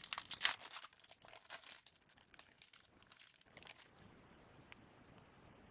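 Trading card pack wrapper being torn open and crinkled by hand, loudest in the first second, with scattered crinkles that die away about four seconds in.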